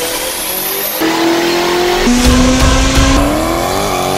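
High-revving car engines heard in quick abrupt cuts: each holds a steady pitch for about a second, then the sound jumps to another engine note, and in the last second the pitch rises as an engine revs up.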